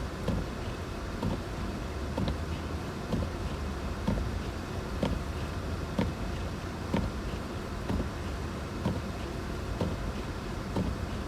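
Steady low vehicle rumble with a short, regular knock about once a second.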